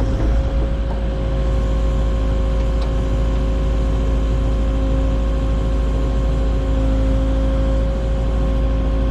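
Vehicle cabin while driving: a steady low engine and road rumble with a constant hum.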